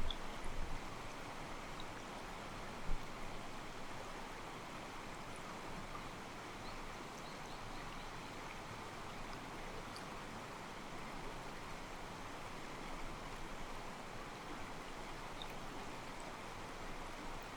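Mountain stream flowing steadily, water sloshing softly against rocks, with a few faint high chirps. There is a brief low thump at the start and another about three seconds in.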